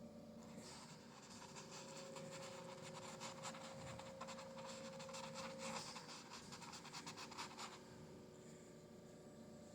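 Paintbrush scratching quickly over canvas in a rapid run of short strokes, starting about a second in and stopping near the end, faint throughout. A faint steady hum sits underneath for much of it.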